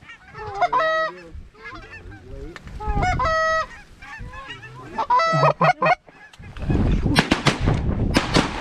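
Three loud goose honks about two seconds apart, each a held note with a brief rise and fall at its ends. In the last two seconds a loud rush of sharp cracks and noise starts.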